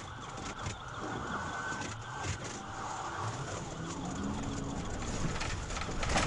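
Police siren sounding over steady street and engine noise.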